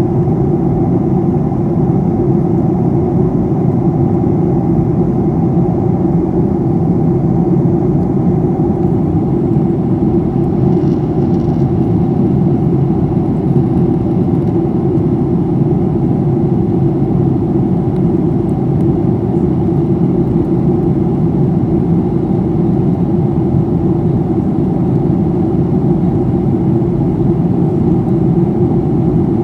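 Steady in-flight cabin noise of a Boeing 737-800 heard from a passenger seat: the drone of its CFM56-7B turbofan engines and rushing airflow, unchanging throughout.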